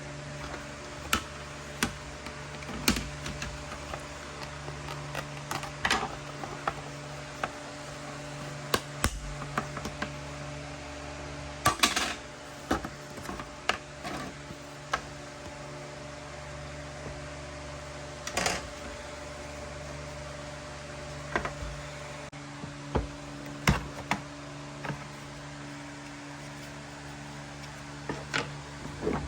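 Irregular sharp clicks and knocks, as of tools and small metal parts being handled, heard over a steady low hum.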